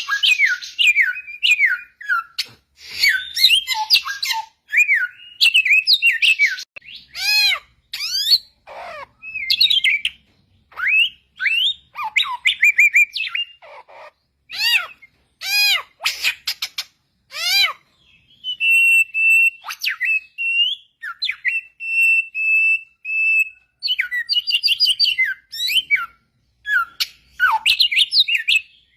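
Samyong songbird singing in the wild: a fast run of clear, varied whistled notes and phrases sweeping up and down in pitch. In the middle it holds one steady, even whistle for several seconds before the quick phrases resume.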